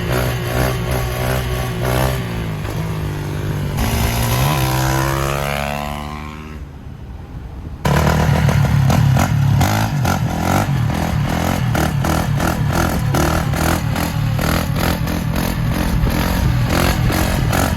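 2021 Yamaha YZ450F's single-cylinder four-stroke engine running hard on a ride. It revs up, then its pitch glides down and fades between about 4 and 7 seconds. Near 8 seconds it comes back in suddenly loud and keeps running at high revs.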